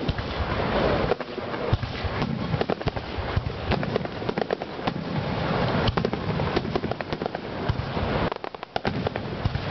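Fireworks display in its closing barrage: a dense, continuous run of booms and crackling bursts, easing briefly near the end before picking up again. Recorded on a digital camera's built-in microphone, so the sound is distorted and thin.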